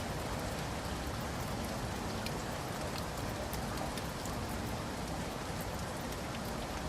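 Steady rain falling, an even hiss with many individual drops pattering on surfaces.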